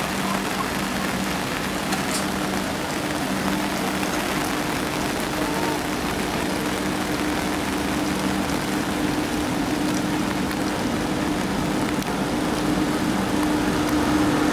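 Heavy monsoon rain falling on an umbrella, a steady hiss, under which the low hum of a WAP-7 electric locomotive grows slightly louder near the end as the train approaches.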